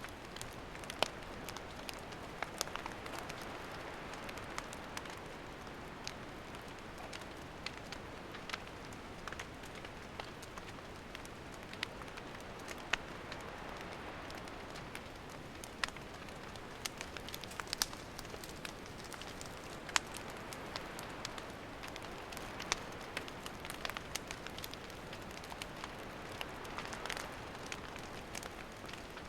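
Wood campfire burning with a steady hiss and irregular sharp crackles and pops, a few every couple of seconds.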